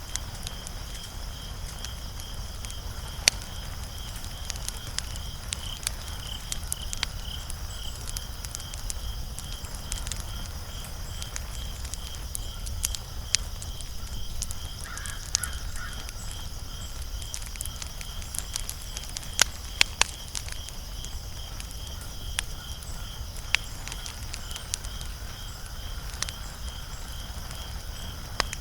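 Wood fire crackling, with irregular sharp pops over a low steady rumble. A high-pitched chirp pulses steadily about twice a second throughout.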